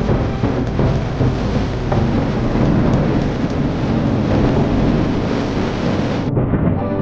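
Fireworks bursting in a dense, continuous barrage: a rolling rumble of booms with crackle. About six seconds in the sound breaks off abruptly and carries on more muffled.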